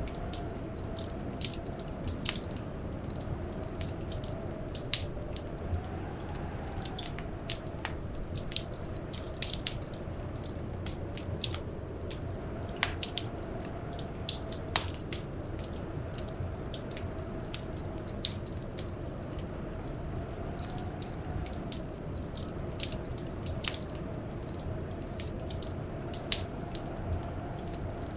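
Wood fire crackling in a fireplace: sharp irregular pops and snaps, several a second, over a steady rushing bed with a faint wavering whistle.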